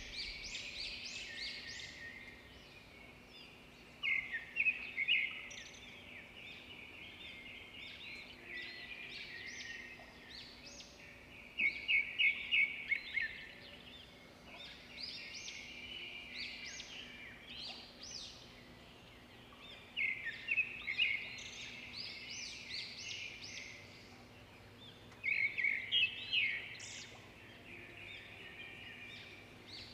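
Birds chirping and twittering, with four louder bursts of rapid repeated chirps several seconds apart and softer twitter between them.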